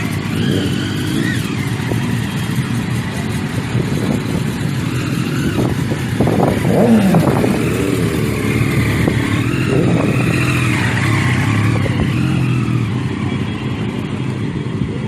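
Motorcycle and car engines running in traffic, their revs rising and falling. It is loudest about halfway through, where one engine's pitch drops.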